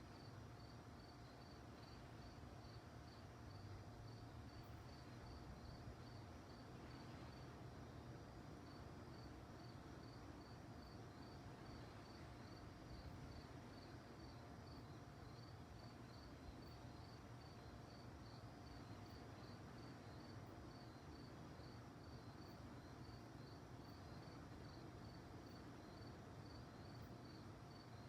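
Crickets chirping faintly at night, a steady high-pitched run of about three chirps a second, over a low rumble.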